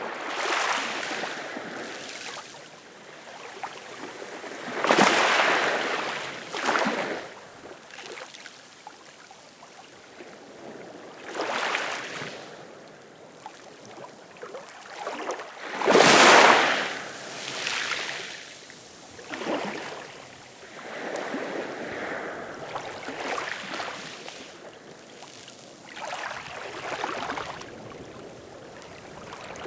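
Ocean waves washing in, each one a swelling rush of water noise lasting a second or two, the loudest about five and sixteen seconds in.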